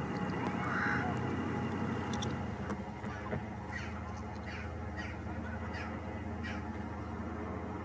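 A bird calling repeatedly in short falling notes, about two a second from a few seconds in, over a steady low engine-like hum.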